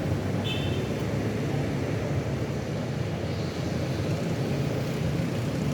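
Steady low drone of a vehicle's engine and road noise while riding along at an even pace, with a brief high beep about half a second in.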